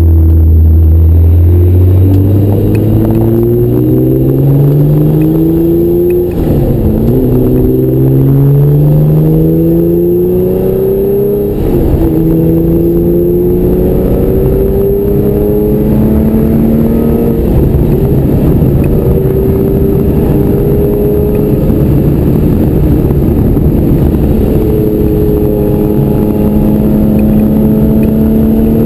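Porsche 964 911's air-cooled flat-six, heard from inside the cabin, accelerating hard through the gears: the engine note climbs steadily in pitch, drops back at each upshift, with clear shifts about 6 and 11 seconds in and more later, then climbs again.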